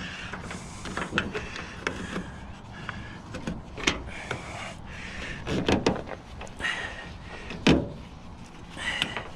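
Knocks, clunks and rattles of scrap metal being shifted and secured in a truck load. There are several scattered hits, with a cluster just under 6 seconds in and the loudest thump a little before 8 seconds.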